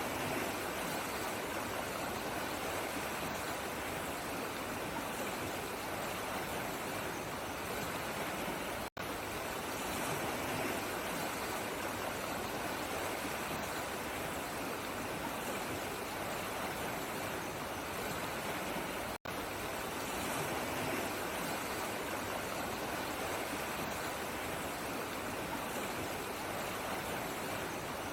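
Running water, a steady even rushing like a stream, broken twice by a split-second gap of silence.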